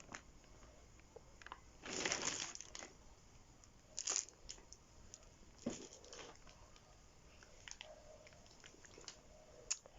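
Mostly quiet room with a few brief rustles and crinkles of things being handled, about two seconds in, four seconds in, near six seconds and just before the end.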